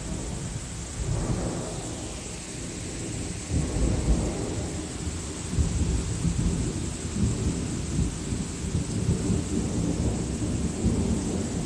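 Long rolling thunder rumbling low, swelling about three and a half seconds in and rolling on without a break, over the steady hiss of rain.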